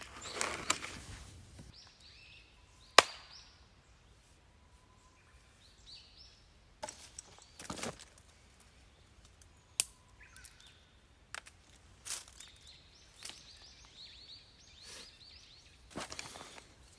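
Scattered sharp knocks and short rustling handling noises, the loudest knock about three seconds in and another near ten seconds. Small birds chirp throughout.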